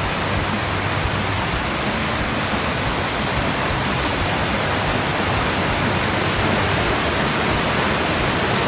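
Flood-swollen river rushing past, a steady, kind of loud wash of water noise: the river is running high after several inches of rain.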